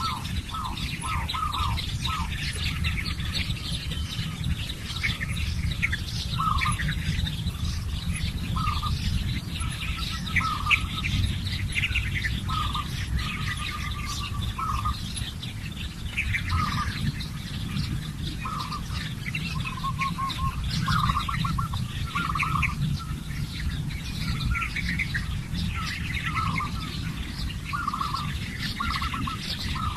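Birds chirping and calling in a forest, many short chirps repeating throughout, over a steady low rumble.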